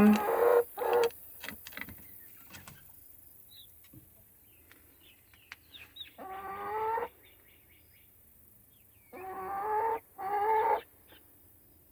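Chickens calling while they feed on cantaloupe: three drawn-out clucking calls, about six, nine and ten seconds in, with a few sharp taps in the first couple of seconds.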